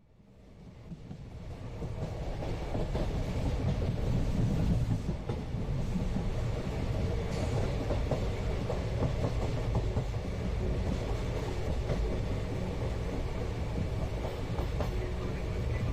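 Steady running noise of an Indian passenger train heard from inside the coach, a deep rumble with wheel clatter on the rails. It fades in over the first two seconds, then holds even.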